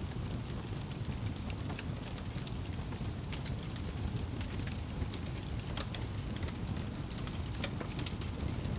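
Wood fire crackling in a fireplace: a steady low rumble of burning with frequent sharp pops and snaps of the firewood scattered throughout.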